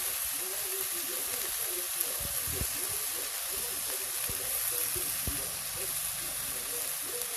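Meat sizzling steadily on a hot grill or pan, an even crackling hiss, with a few soft knocks.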